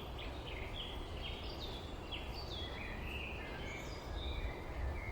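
Small birds chirping in a quick run of short, downward-slurring notes, a few each second, over a steady low rumble.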